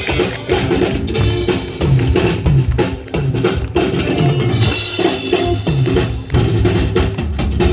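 Live drum kit played solo, with a quick run of kick drum, snare and tom hits and cymbals.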